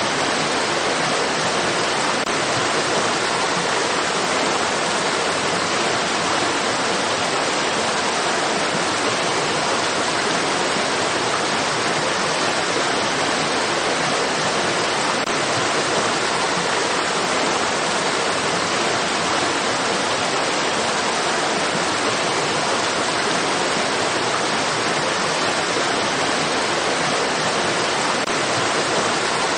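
Running stream water: a steady, even rushing hiss that does not change.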